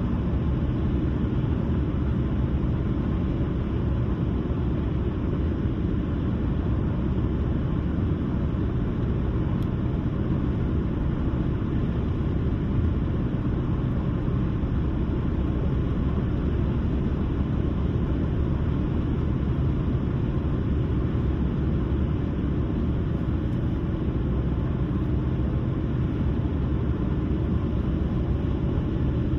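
A car driving at steady speed: a constant low rumble of tyres on the road and the running engine, with no changes or sudden sounds.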